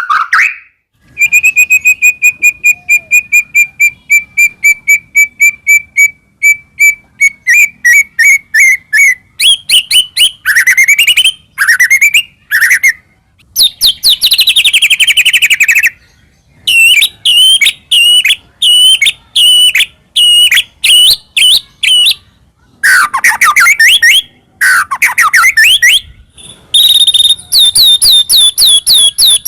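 White-rumped shama (murai batu) singing loudly and continuously. It opens with a long run of fast, evenly repeated whistled notes, then moves on to varied phrases of swooping whistles and rapid rattling note series, with short pauses between them.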